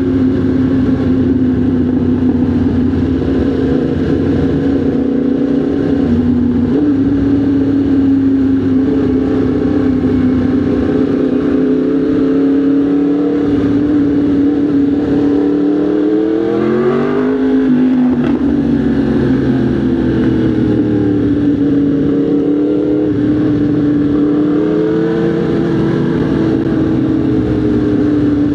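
Motorcycle engine running at steady cruising revs under way, with a quick rise in revs about two-thirds of the way through that then eases back, and gentle rises and falls in pitch after that.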